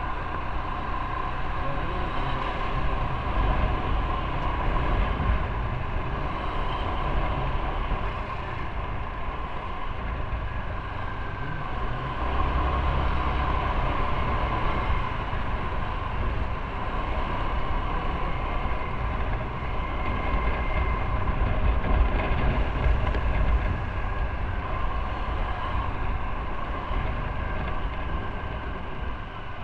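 Motorcycle riding on the road: the engine running steadily under way, mixed with road and wind noise on the microphone.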